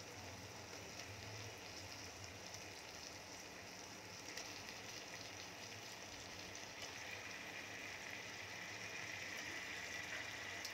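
Faint steady sizzle of onion-tomato masala frying in oil in a pressure cooker with raw mutton pieces added, growing a little louder from about two-thirds of the way in.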